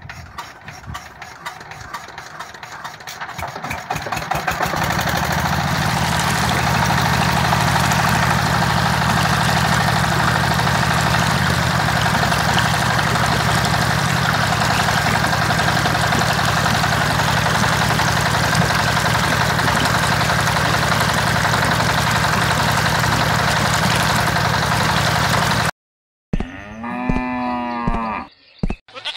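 Diesel water-pump engine being hand-cranked and starting: knocks quicken over the first few seconds, then it runs steadily for about twenty seconds. After an abrupt cut near the end, a cow moos.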